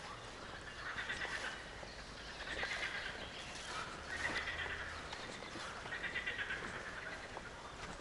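Repeated trilling animal calls, each under a second long, coming roughly every second and a half over a steady outdoor hiss.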